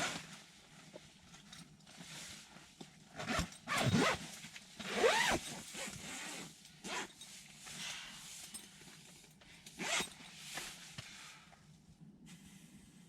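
A zipper pulled in several short, irregularly spaced strokes, most likely a tent or clothing zipper being worked.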